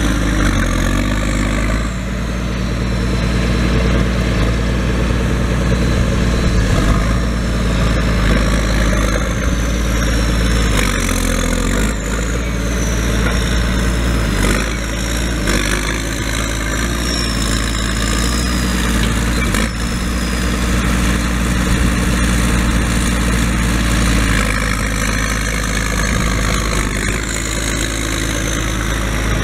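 Tractor engine running steadily, with a high whine that rises and falls now and then.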